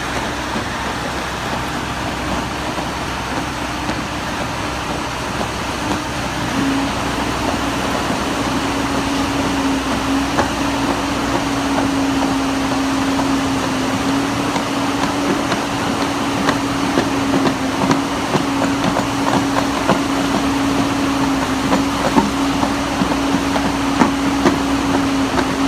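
Concrete pump truck running steadily, its hum rising and settling about six seconds in, with scattered light clicks over the engine noise.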